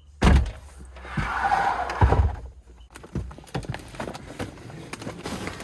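Knocks and clatter of objects being handled: a heavy thump soon after the start and another about two seconds in, with a short rustling hiss between them, then a run of lighter clicks and taps.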